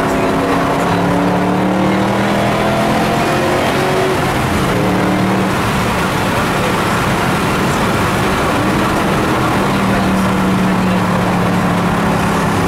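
Shelby GT500KR's supercharged V8 running loud while driving, its pitch holding steady for a few seconds at a time and stepping to new levels as the revs change.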